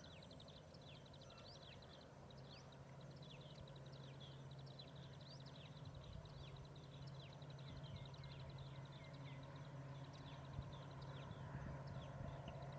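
Faint chirping of small birds, many short falling chirps, over a low steady hum.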